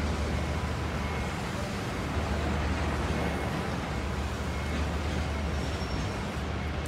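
Freight train of tank wagons rolling past on the rails, with a steady low drone from the diesel locomotive hauling it.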